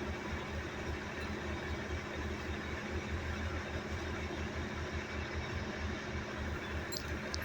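A vehicle engine running steadily at idle, with a couple of short clicks about seven seconds in.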